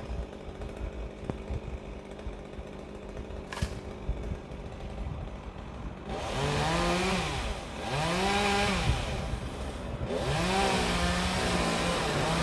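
Chainsaw ticking over at a steady low pitch, then revved up and down three or four times in the second half, its pitch rising and falling with each burst of throttle.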